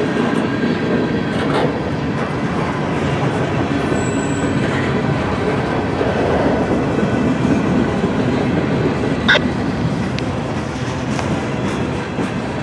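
Freight cars of a passing mixed freight train rolling by, steel wheels drumming and clicking steadily over the rails. A brief sharp metallic ring stands out about nine seconds in.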